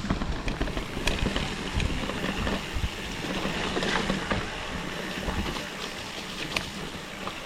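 Mountain bike rolling down a muddy dirt trail, with wind buffeting the action-camera microphone, tyre noise and scattered clicks and rattles from the bike.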